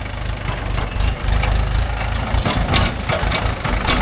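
Diesel engine idling with a steady low rumble, with scattered sharp clicks and knocks over it.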